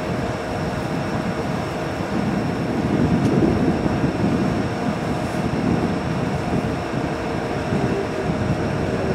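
A train standing or moving at the platform: a steady mechanical rumble with a few held tones, growing louder about three seconds in.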